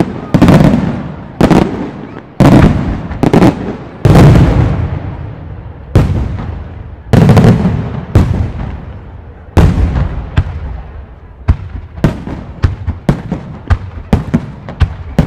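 Aerial firework shells bursting one after another, each loud bang trailing off in a long rolling echo. From about eleven seconds in comes a quicker run of sharper cracks, two or three a second.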